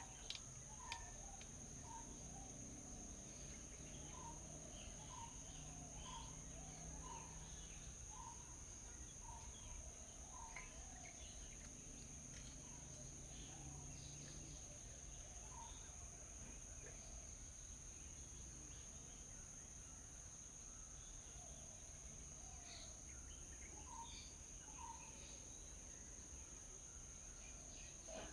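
Faint outdoor birds-and-insects ambience: a steady high insect drone under scattered short bird chirps. One bird repeats a short call about twice a second for the first ten seconds, and again briefly near the end.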